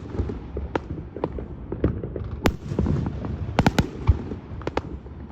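Fireworks bursting overhead: a run of sharp bangs and pops at uneven intervals, several in quick succession about three and a half to four seconds in, over a steady low rumble.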